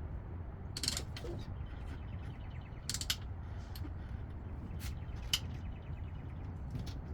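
Scattered sharp metallic clicks and clinks of hand tools on a pit bike's engine during a valve adjustment, about half a dozen spread over the few seconds, over a steady low background rumble.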